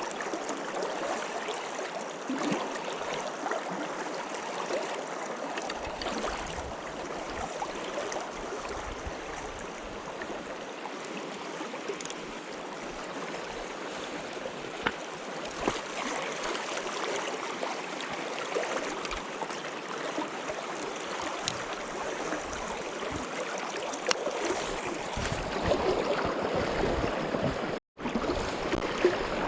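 Steady rush of a trout stream flowing over rocks, with a momentary dropout near the end.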